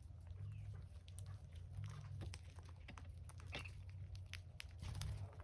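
Faint, scattered bird chirps and small clicks over a low steady hum.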